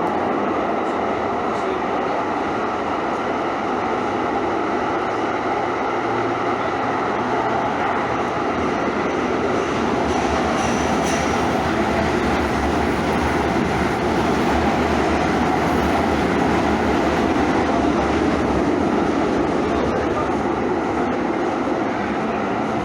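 Passenger rail car in motion, heard from inside: a steady running rumble of the wheels on the track, with a brief faint high squeal about ten seconds in.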